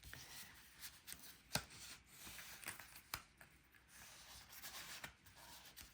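Faint rustling of cardstock being folded and creased flat by hand, with a few soft sharp taps as the paper is bent.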